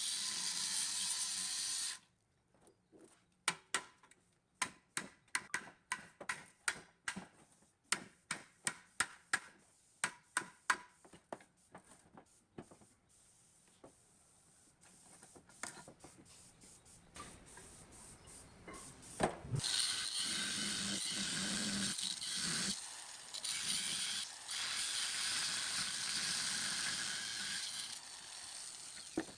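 Workshop work on metal: a steady noisy tool sound briefly, then a run of sharp mechanical clicks about twice a second that thin out, a single knock, and a steady noisy tool sound again for the last third.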